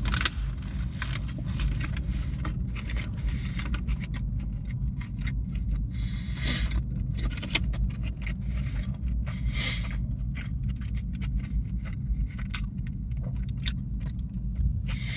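A cheesesteak being eaten: scattered crinkles and clicks of its paper wrapper and bites over a steady low rumble.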